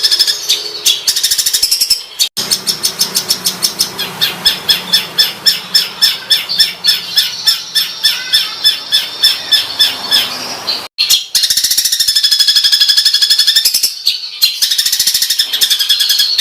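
Songbird giving harsh, rapid-fire 'tembakan' calls: dense, sharp high notes that pulse about three times a second through the middle stretch. The recording cuts abruptly to another call passage about two seconds in and again near eleven seconds.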